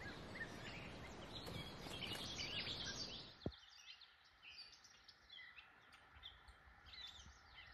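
Several small birds singing and chirping, faint, many short high calls overlapping. For the first three seconds or so they sit over a light steady hiss, which drops away a little over three seconds in, leaving only the birds.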